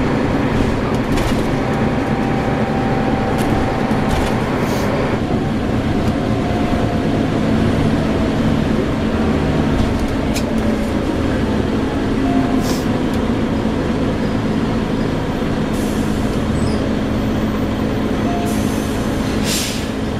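Scania L94UB single-deck bus running, its engine note steady with a slight shift about five seconds in, over continuous road noise. There are a few light clicks and a short hiss of air near the end.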